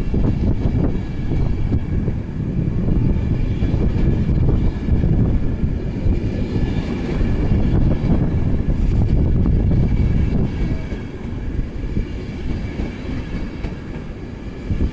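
Class 91 electric locomotive's InterCity 225 train moving through the station: a steady low rumble of wheels on rail, with faint high steady whines above it. The rumble eases off a little in the last few seconds.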